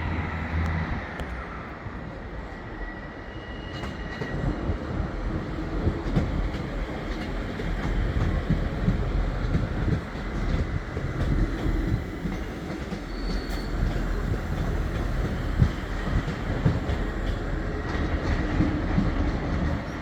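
Class 158 diesel multiple unit moving through the station: its diesel engine drone dies away about a second in, leaving a steady rumble of wheels on rail with faint clicks and brief faint wheel squeal.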